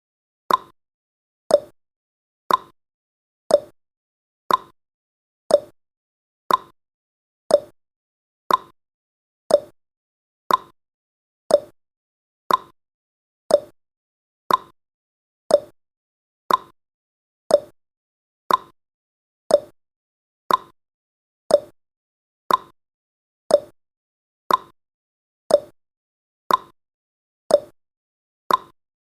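Countdown timer's clock-tick sound effect, one short tick each second in an even tick-tock rhythm.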